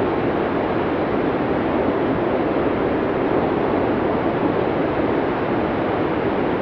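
Blizzard wind blowing steadily: a dense, even rush with a deep hollow body and no gusts or breaks.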